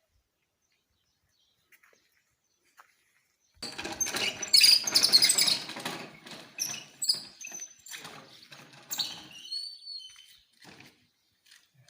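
A sudden loud rustling burst with small birds chirping in short high notes, starting about three and a half seconds in and thinning out after about nine seconds.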